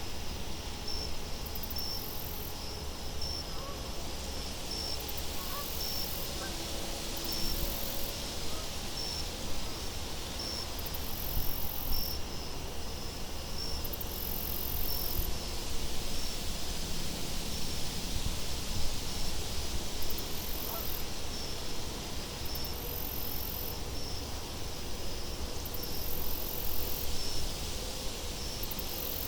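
Crickets chirping about once a second over a steady wind hiss, with higher insect trills that come and go every few seconds.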